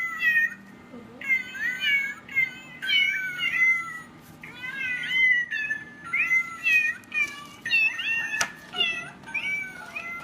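Cat meowing over and over in short, high, pitch-bending calls, about one or two a second.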